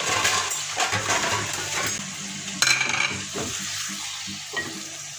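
Chicken pieces with ginger-garlic paste sizzling in hot oil in a metal karahi as they are browned, while a wooden spatula stirs them, scraping and knocking against the pan. One louder clack of the spatula on the pan comes about two and a half seconds in.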